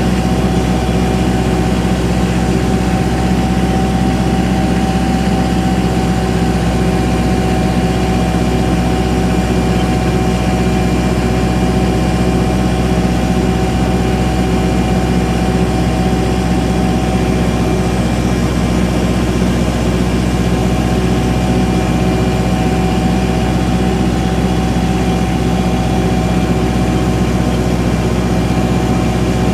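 Engine running steadily at a constant speed, with a steady high tone above its low hum and no change in pace.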